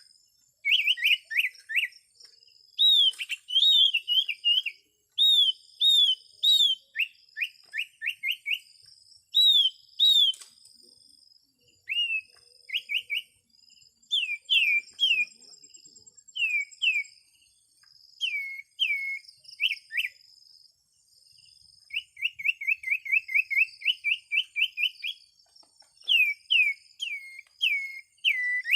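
Sirtu bird calls: short groups of sharp, downward-slurred chirps repeated again and again, with a fast run of about a dozen chirps about three-quarters of the way through. Fainter, higher chirps and a thin steady note sound behind them.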